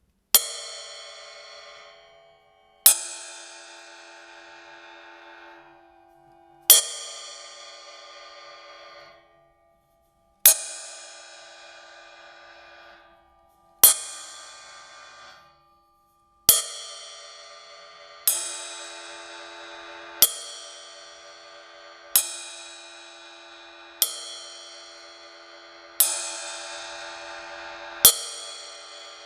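Close-miked ride cymbal struck with a drumstick, one stroke at a time, about twelve strokes. Each stroke rings on in a shimmer of many overtones. The early strokes are a few seconds apart and die away to silence, while the later ones come about every two seconds and wash into each other.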